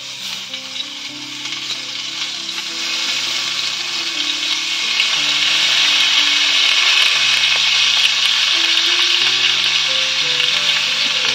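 Skewers of marinated chicken and vegetables sizzling in oil on a hot griddle over a coal fire. The sizzle grows louder over the first few seconds as more skewers are laid down, then holds steady.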